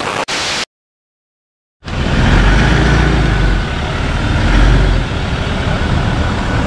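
A short burst of harsh noise, about a second of dead silence, then a vehicle engine running with a heavy low rumble, swelling louder twice.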